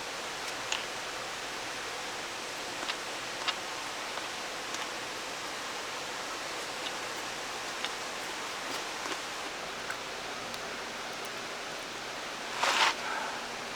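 Steady rush of a valley stream, with a few light clicks scattered through it and a short, louder rustle near the end.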